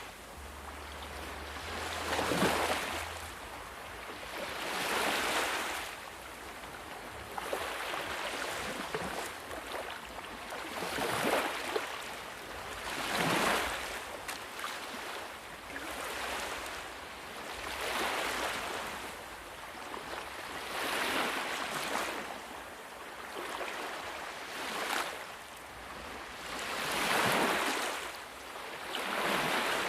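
Sea waves washing onto a shore, each wave swelling and falling away about every two to three seconds.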